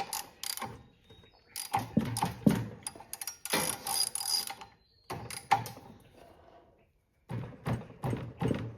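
Ratchet wrench clicking in several short bursts as it is worked back and forth on a seized small engine that will not turn over. The engine is locked up, possibly rusted inside.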